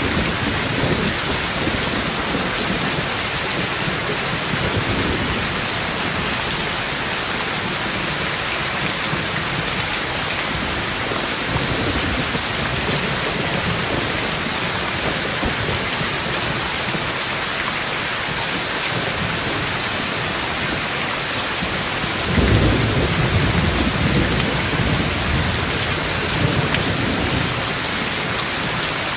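Steady rain with rolls of thunder. The loudest roll, a deep rumble, breaks about three quarters of the way in and lasts several seconds.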